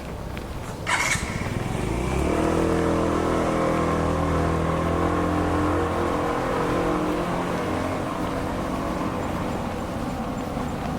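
A motor vehicle's engine running close by, a steady low hum that is loudest for a few seconds and then fades, with a short sharp hiss about a second in.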